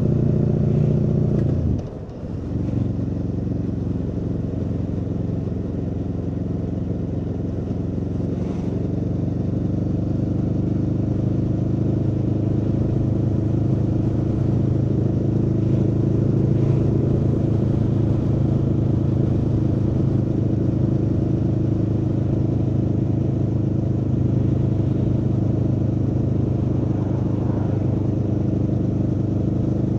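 Aprilia Tuono V4's V4 engine running steadily under way. About two seconds in the revs fall sharply and the sound dips for a moment, then the engine pulls again and its pitch rises slowly and holds.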